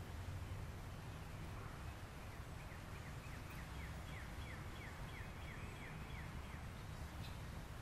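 A bird singing a series of about a dozen short, falling whistled notes, about three a second, starting a couple of seconds in and stopping shortly before the end, over a steady low rumble of background noise.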